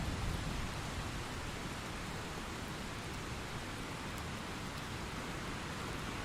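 Steady hiss of heavy rain, a rainstorm sound effect.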